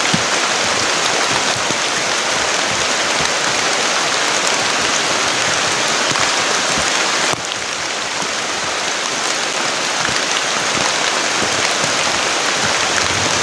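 Heavy rain pouring down in a steady, dense hiss. About halfway through it drops abruptly to a slightly softer, duller hiss.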